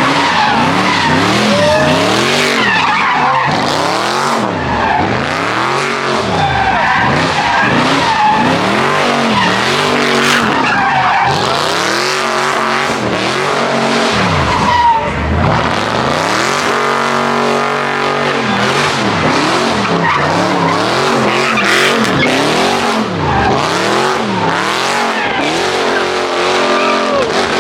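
Car engine revving up and down over and over while its tires squeal, as the car spins its wheels. The revs hold steadier for a few seconds past the middle.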